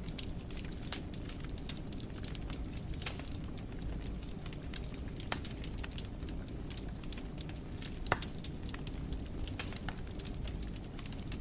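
Fire crackling in a fireplace: many small sharp pops and snaps over a low steady rumble of flames, with one louder pop about eight seconds in.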